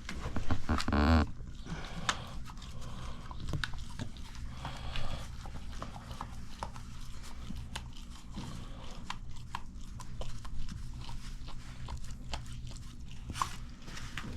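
Pungsan dog making a short vocal sound about a second in, followed by scattered clicks and crunches.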